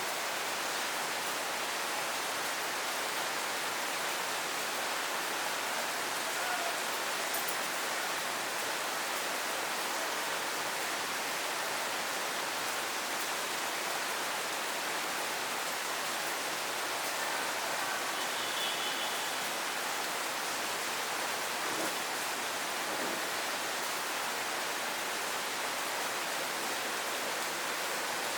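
Steady rain falling, a dense even hiss with no letup. A few faint short high chirps come about two-thirds of the way through.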